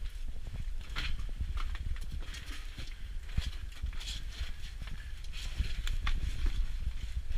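Irregular footsteps and scuffs on hard ground, with rustling, over a steady low rumble.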